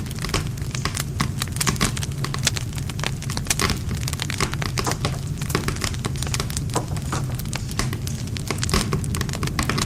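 Wood campfire crackling, with many quick sharp pops from the burning wood over a steady low rumble of the flames.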